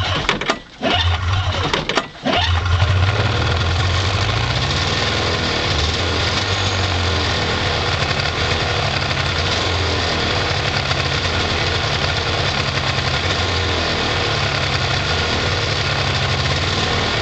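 1992 Polaris Indy 500 snowmobile's two-stroke twin being pull-started cold on half choke. It fires and falters twice in the first couple of seconds, catches on the third pull about two seconds in, and then runs steadily.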